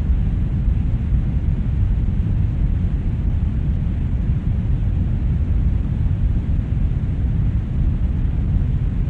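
Brown noise: a steady, deep rushing hiss, strongest in the bass and dark in the treble, with no change in level.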